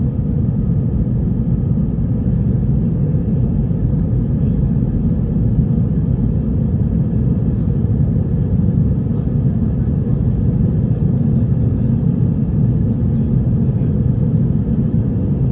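Steady low rumble inside the cabin of an Airbus A320 in flight: engine noise and rushing air, with no distinct events.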